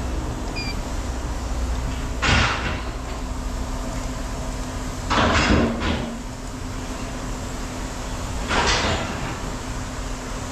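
Scrap metal being tossed or dropped during weighing: three short crashes about three seconds apart, the middle one the longest, over a steady low mechanical hum.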